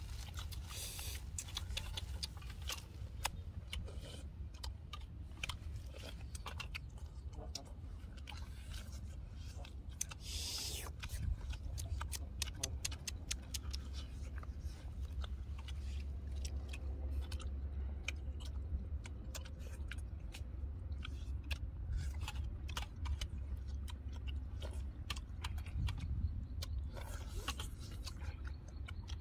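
Two people eating cooked wild duck with their hands: chewing and smacking, with many small wet mouth clicks as they tear and bite the meat. A steady low rumble sits underneath.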